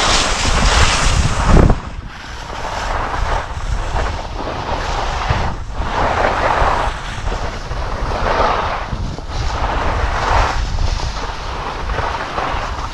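Wind rumbling on the microphone while skiing downhill, with skis scraping over the snow. The scrape swells about every two seconds as the skis carve turns, and both sounds are loudest in the first second and a half.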